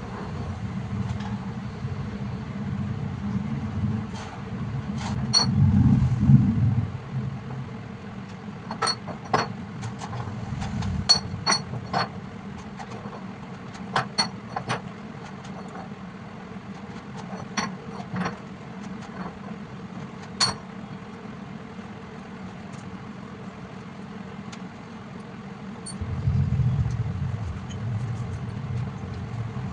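Milling machine running with a steady low hum that swells louder twice, with a run of sharp, ringing metallic clinks in the middle.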